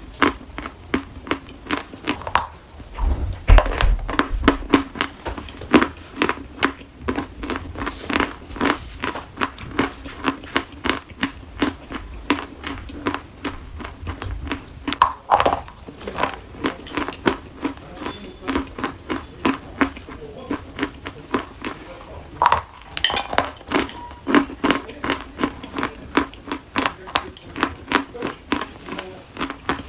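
Dry chalk crunching: a steady string of short, sharp crunches, about two or three a second, with thicker clusters of louder crunches around 3 to 4 seconds in, about 15 seconds in and about 23 seconds in.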